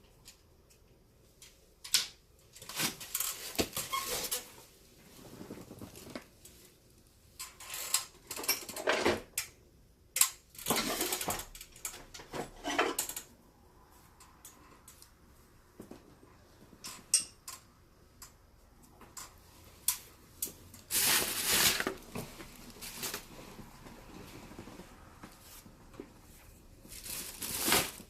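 Irregular rustling and scraping strokes with sharp clicks and taps: handling noise from working on a leather baseball glove.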